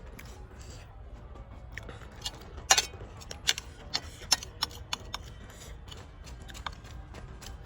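Eating sounds: a run of irregular sharp clicks and crunches, a few a second, loudest about three seconds in.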